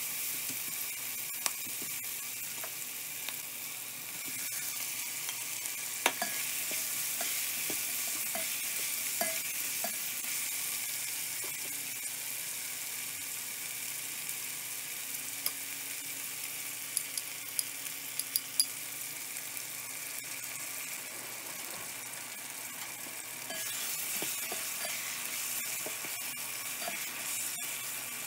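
Onions, tomatoes and fried chicken pieces sizzling in hot oil in a pan while being stirred, with a steady hiss and sharp clicks and scrapes of the utensil against the pan, a run of them in the middle.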